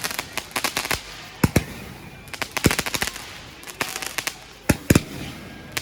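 Firecrackers going off in quick, irregular clusters of sharp bangs, with a few single louder bangs near the end.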